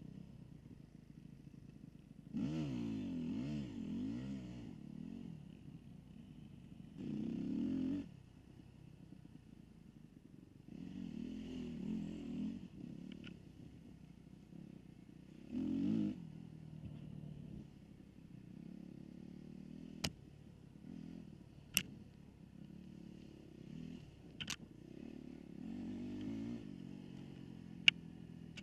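Dirt bike engine revving in repeated bursts, rising and falling in pitch, with lower running between them. Four sharp clicks come in the second half.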